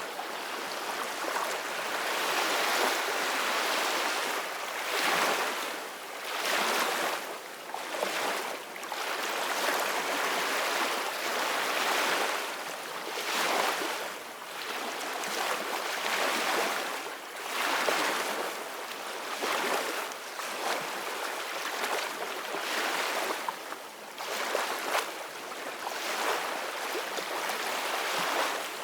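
Sea waves washing and breaking: a steady rush of water that swells and eases every one to three seconds.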